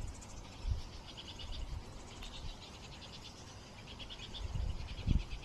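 Young birds calling for food: short bouts of rapid, high-pitched beeping notes, repeated several times, the begging of fledglings waiting to be fed by their parents. A few low dull bumps on the microphone come and go, one near the end.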